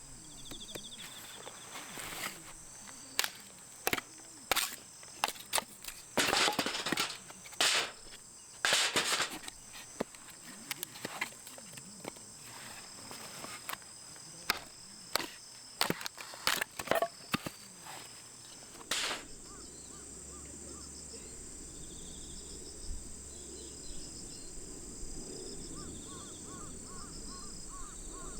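Crickets chirping steadily, a series of sharp clicks and knocks scattered over the first two-thirds, stopping about nineteen seconds in.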